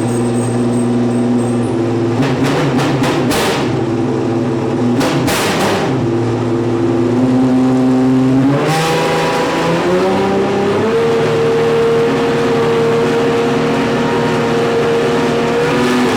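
Racing car engine running hard on track. There is a run of sharp cracks a few seconds in, then the engine note climbs in steps and holds at a high, steady pitch for the rest of the time.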